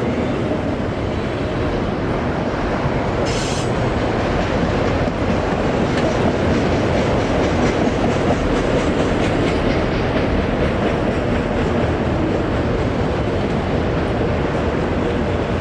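Freight cars of a CSX manifest train rolling past, with a steady rumble and clatter of steel wheels on rail. A brief high wheel squeal comes about three seconds in.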